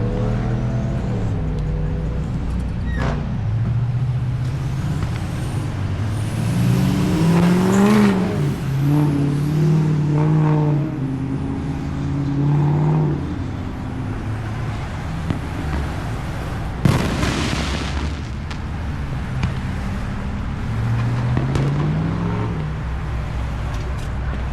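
Road traffic: car and truck engines running and revving up and down as vehicles pull away and pass, with a short sharp hiss about seventeen seconds in.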